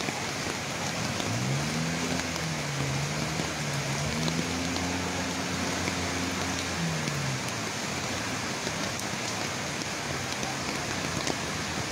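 Steady heavy rain and the rush of a flooded river. A low humming tone rises about a second in, wavers, holds and fades out after about seven seconds.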